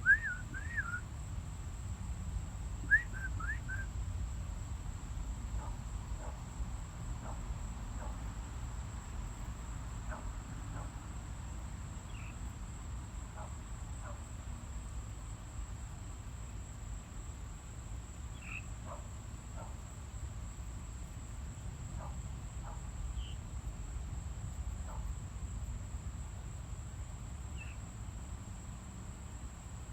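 Birds chirping: a quick group of bright chirps right at the start and another about three seconds in, then scattered fainter calls. A steady high-pitched hum and a low rumble run underneath.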